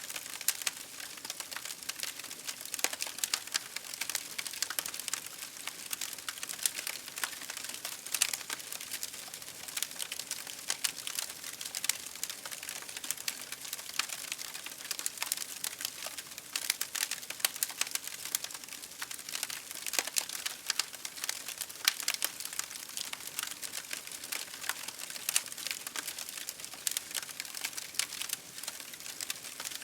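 Campfire burning with dense, irregular crackling and popping over a steady hiss.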